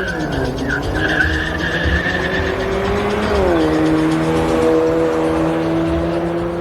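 Drag-racing car launching with a high tire squeal, then a steady engine note that steps down in pitch about three seconds in, as at a gear change.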